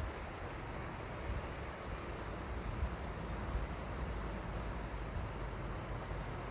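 River water flowing in a steady rush, with a low uneven rumble underneath. A single faint high chirp about a second in.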